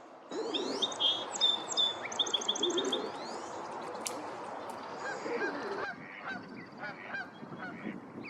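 Birds calling: low honk-like calls among fast runs of high, repeated chirps. About six seconds in the chirping changes to shorter, softer notes.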